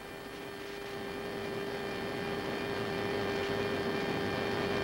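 Steady aircraft noise: a constant electrical-sounding hum under a rushing noise that grows gradually louder.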